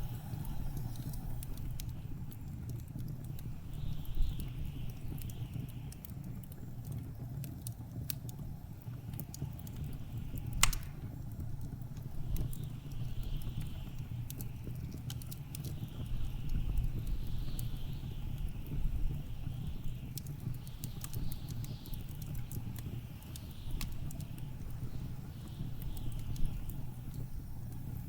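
Wood fire crackling with scattered pops, one sharper pop about ten seconds in, over a steady low rumble of blizzard wind; a higher wind whistle swells and fades in gusts.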